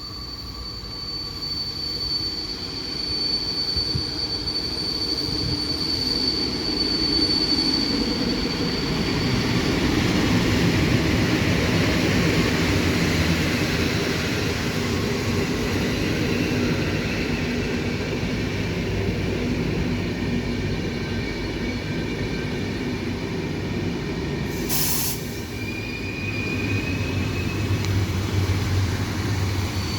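Locomotive-hauled passenger train of coaches rolling by, its rumble building over the first ten seconds or so and then holding. A high steady whine runs through the first several seconds, with a short burst of noise near the end.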